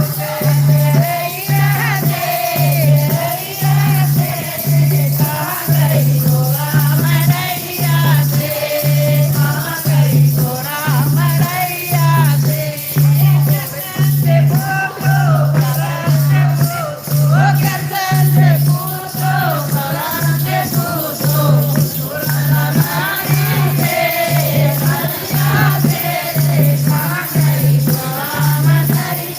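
Hindi devotional bhajan: voices singing a melody over a steady low beat, about one and a half strokes a second, with rattling shaken percussion.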